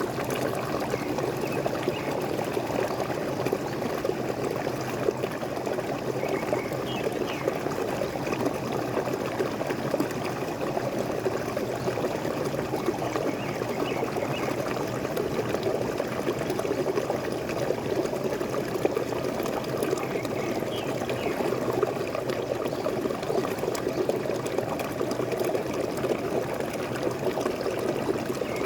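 Small waterfall splashing and pouring steadily, with a few faint high bird calls about a third of the way in, in the middle and two-thirds of the way through.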